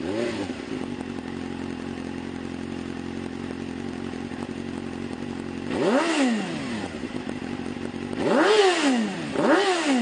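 2004 Suzuki GSX-R750's inline four-cylinder engine through a Yoshimura exhaust, settling to a steady idle just after starting. Later it is revved three times, the last two close together, each rev rising and dropping back to idle.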